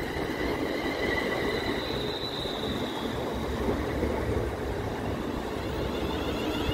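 London Northwestern Railway Class 350 Desiro electric multiple unit passing close by: the steady rumble of its wheels on the rails, with a high whine that fades after the first few seconds.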